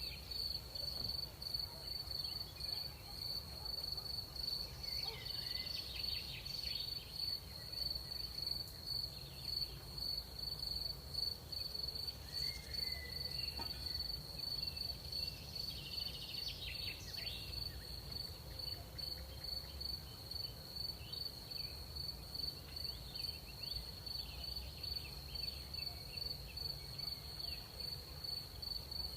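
Crickets chirping in a steady, fast-pulsing high trill, with a few fainter, scattered insect chirps in between and a low background rumble of night air.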